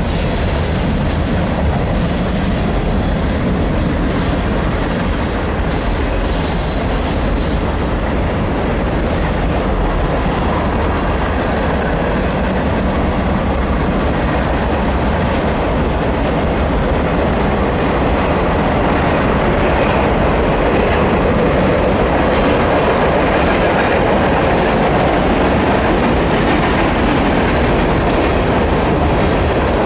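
Mixed freight train's cars rolling past: a steady, loud rumble of steel wheels on the rails, a little louder after about twenty seconds. There are faint high wheel squeals around five to eight seconds in.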